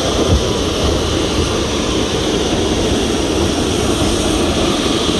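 Narrow-gauge steam train running: a steady, even rumbling rush of the moving train.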